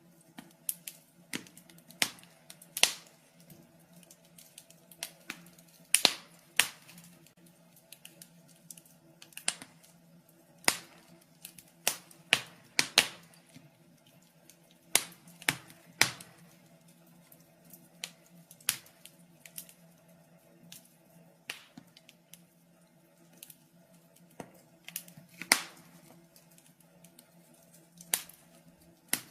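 Wood fire crackling in a fireplace: irregular sharp pops and snaps, some much louder than others, coming anywhere from one to several a second.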